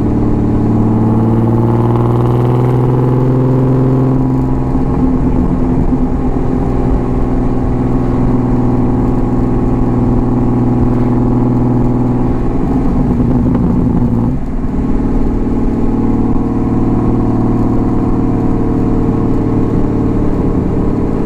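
BMW M50B25 2.5-litre straight-six exhaust through stainless headers and a 3-inch stainless system with a small mid silencer and a straight-piped rear section. It is loud and running at a fairly steady engine speed under way, with the note dropping about fourteen seconds in, as on a gear change or lift off the throttle.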